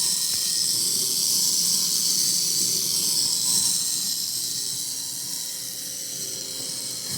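Battery-powered model engine kit running, its small electric motor turning the flywheel, crankshaft, pistons and valves with a steady high-pitched whirring hiss. It eases off slightly a few seconds in.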